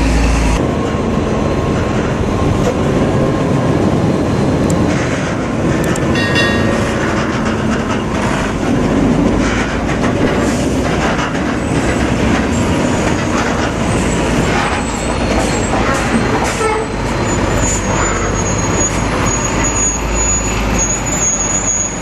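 Heavy truck running on the road: a loud, steady engine-and-road rumble with scattered clicks and rattles. A short high-pitched tone comes about six seconds in, and a thin high whine from about seventeen seconds on.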